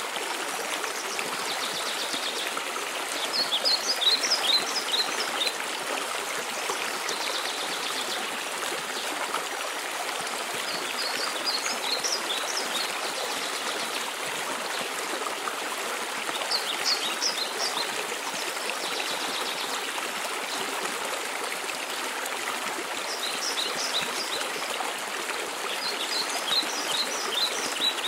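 Waterfall water rushing steadily, with a songbird singing short phrases of quick high chirps every few seconds.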